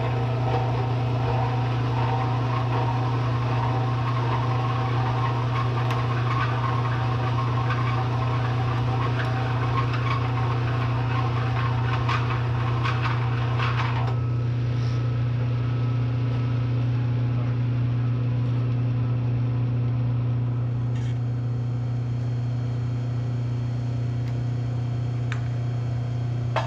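Bridgeport milling machine running at reduced spindle speed with a steady hum, while a bi-metal hole saw cuts into a steel bumper tube with a continuous grinding, scraping noise. The cutting noise stops abruptly about halfway through, and the mill keeps running with its hum.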